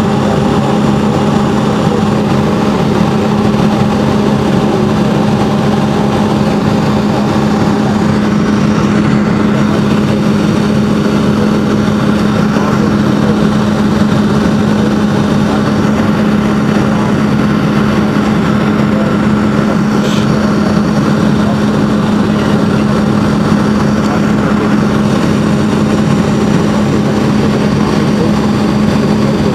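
Boeing 757's Rolls-Royce engines heard from inside the passenger cabin, a loud, steady drone with a constant low hum and no change in power.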